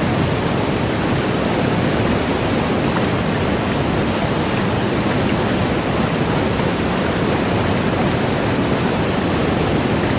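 Niagara Falls: the falling water's steady, even rush.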